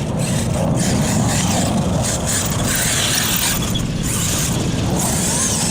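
HPI Savage Flux electric RC monster truck driving, its motor and tyres running steadily with rises and falls in the high hiss.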